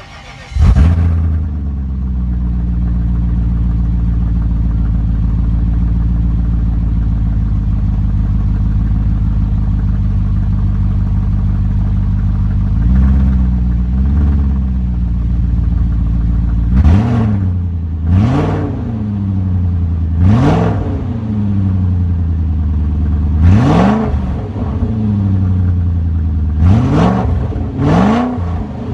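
BMW E34 540i's 4.0-litre V8, running with no exhaust system, starts about half a second in, flares and settles to a steady idle. Near the middle it gets two light throttle blips, then a string of sharp revs, each rising and dropping back quickly.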